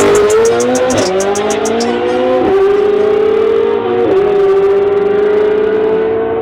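Vehicle engine under full throttle on a drag strip pass. The pitch climbs steadily and drops sharply three times as the transmission upshifts, then holds high and steady through the next gear.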